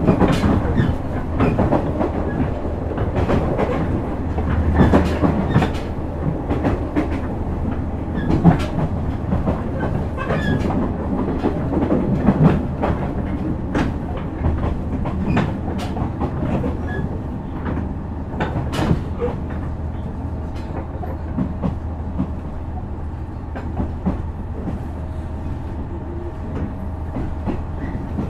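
Running sound of a JR West KiHa 126 series diesel railcar heard from on board: a steady low drone with wheels clicking over rail joints. The clicks come thick and loud in the first half, then thin out as the sound grows a little quieter.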